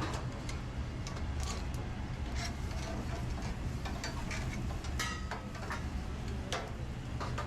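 Busy restaurant kitchen during service: a steady low hum of kitchen equipment under scattered clinks and clatters of utensils, pans and dishes.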